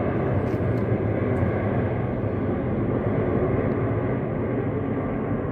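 Emirates Airbus A380's four jet engines, a steady rumble as the airliner passes overhead on its landing approach, easing off slightly.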